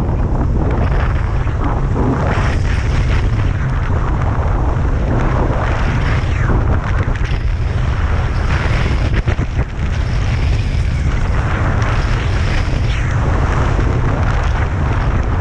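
Gusty wind buffeting the microphone: a loud, steady low rumble with hissing swells every few seconds.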